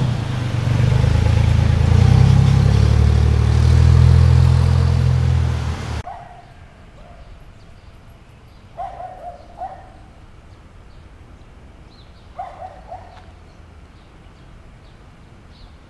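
A loud engine running steadily close by, cutting off abruptly about six seconds in. Quieter outdoor background follows, with a few short paired chirps twice.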